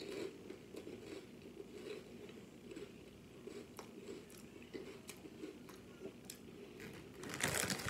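Close-up mouth sounds of a person chewing a spicy queso cracker topped with ranch tuna: faint, soft crunches and small wet clicks. A louder crackling rustle comes near the end.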